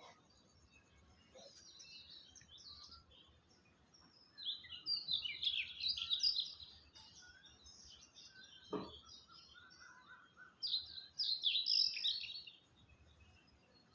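Small birds chirping and twittering in quick, high bursts, two loud flurries with fainter calls between them. A single short knock sounds partway through.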